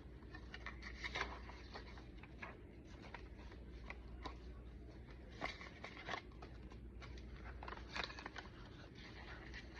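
Paper rustling and soft crinkles as the pages of a thick handmade junk journal are turned and handled, with a few louder crinkles scattered through.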